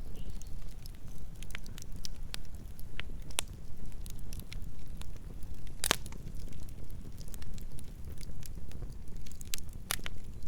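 Burning logs crackling: a steady low rumble of the fire with scattered sharp pops and snaps, the loudest about six seconds in and another near the end.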